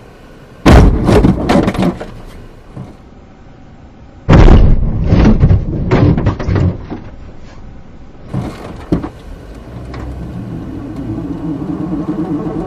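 Two loud collision impacts about three and a half seconds apart, each followed by clattering debris. A few smaller knocks follow, then a steady hum near the end.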